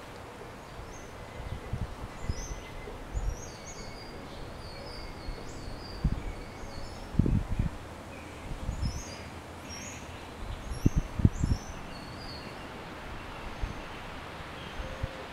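Small birds chirping in quick, high, short notes through most of the stretch, over steady outdoor background noise. Dull low thumps on the microphone come now and then, the loudest about seven seconds in and again around eleven seconds.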